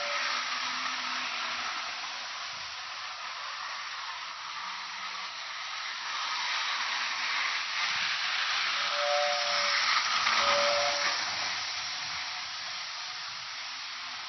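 Train running with a steady hissing rush. A few short, faint tones come through about nine and ten and a half seconds in.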